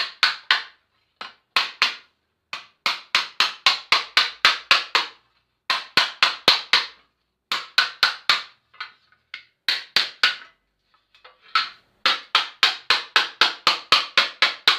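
Hand hammer beating a sheet-metal repair panel over a wooden stump to shape it. The strikes come in quick runs of sharp blows, about four or five a second, broken by short pauses.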